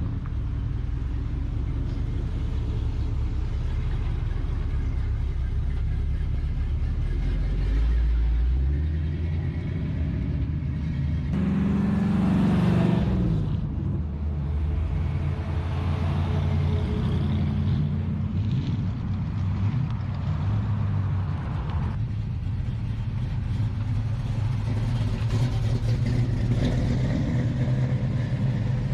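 Car engines running as cars drive past one after another, a steady low rumble. One car passes closer about twelve seconds in and is louder.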